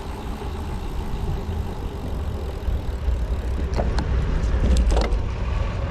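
Wind buffeting the microphone of a camera riding along on a moving bicycle, a steady low rumble with road noise, broken by a few short clicks about four and five seconds in.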